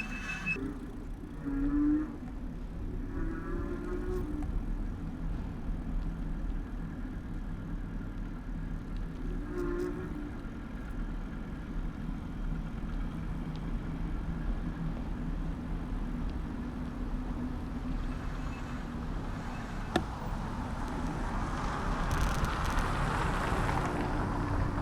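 Street and riding noise picked up by a handlebar-mounted camera on a bicycle: a steady low rumble, with a few short low moaning tones early on, a single click, and a louder passing swell of traffic noise near the end.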